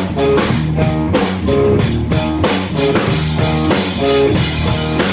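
Live rock band playing loud: guitar chords over a drum kit keeping a steady beat, with no singing.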